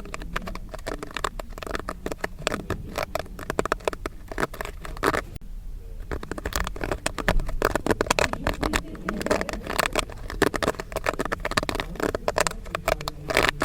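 Popcorn kernels popping in quick, dense succession, many sharp pops overlapping, with a brief lull about five and a half seconds in.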